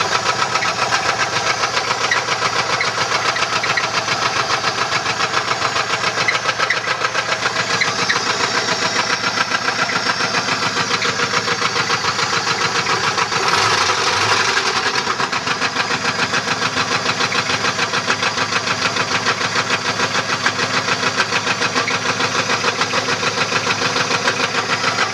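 1994 GM LT1 5.7-litre V8 running with a fast, steady knock, which the owner puts down to a bent connecting rod. It revs up briefly about halfway through, then settles back.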